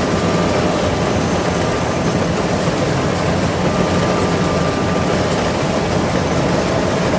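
Kubota combine harvester running steadily at close range, a loud continuous drone of its diesel engine and machinery.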